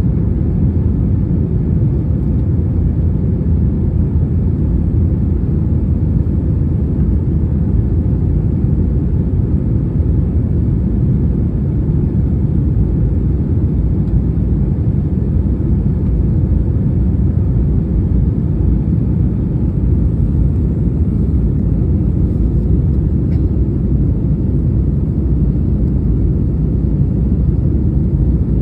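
Airliner's engines making a steady low rumble that holds level throughout.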